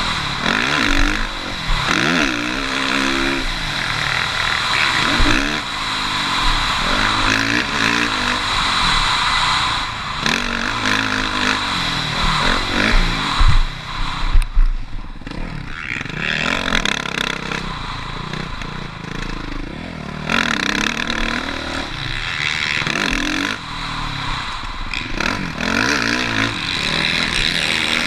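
Motocross bike engine revving hard and then backing off, over and over, as it is ridden around the track; the pitch climbs and drops every second or two. The engine goes quiet briefly about halfway through before picking up again.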